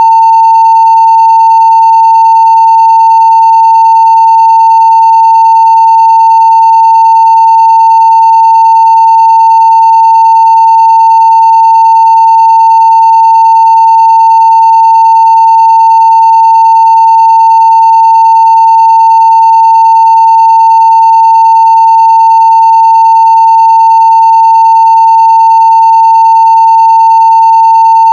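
A 900 Hz sine-wave audio test tone at full level (0 dB), one steady unbroken pitch.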